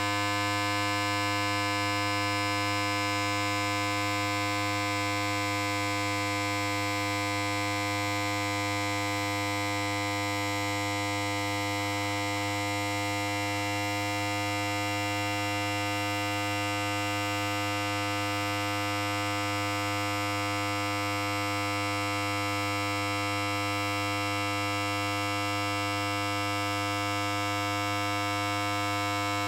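Electric hair clippers running continuously, giving a steady, unchanging buzz with a strong low hum and many bright overtones above it.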